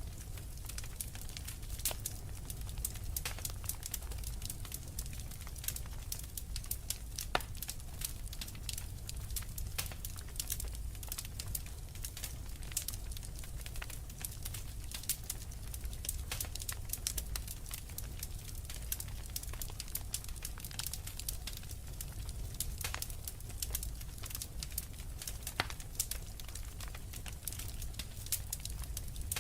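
Wood fire crackling steadily, with many sharp irregular pops and snaps over a steady low rumble.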